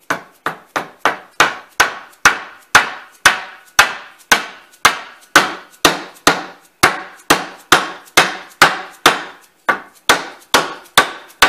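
Hammer striking wood repeatedly in steady blows, about two a second, growing louder over the first couple of seconds.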